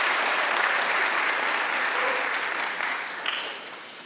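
Audience applauding. The clapping holds steady, then dies away over the last second and a half.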